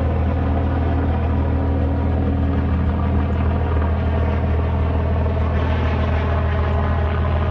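Helicopter running with a steady, even low drone that holds unchanged throughout.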